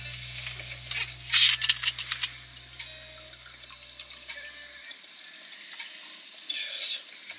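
Water running and splashing in short bursts, with a few light clicks, loudest about a second and a half in. A soft low background hum of music stops about five seconds in.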